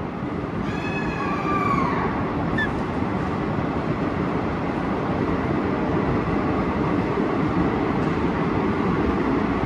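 Passenger train running through a long rail tunnel: a steady rumble and rush of wheels and air. About a second in, a short horn sounds, bending up and then down in pitch.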